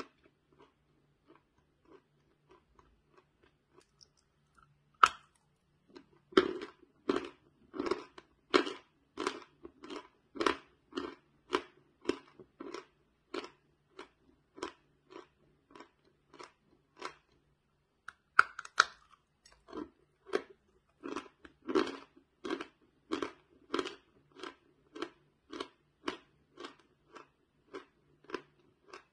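Dry chalk bar being bitten and chewed: crisp crunching chews at about one and a half a second. Two sharp, loud crunches as pieces are bitten off, about five seconds in and again just past halfway, are each followed by the loudest chewing, which then fades.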